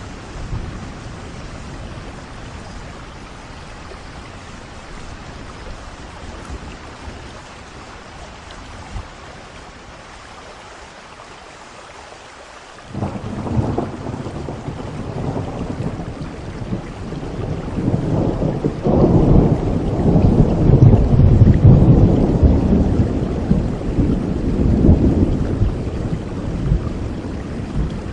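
Steady rain with a long roll of thunder. The thunder breaks in suddenly about halfway through, swells to its loudest a few seconds later and slowly fades near the end.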